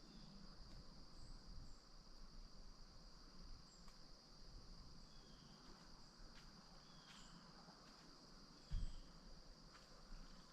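A steady, faint insect chorus: a continuous high trill of crickets. A few faint short chirps come over it, and there is one soft low thump near the end.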